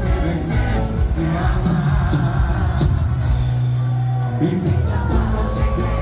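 Live cuarteto band playing loudly, with steady percussion and a held bass note near the middle, and a crowd singing and shouting along.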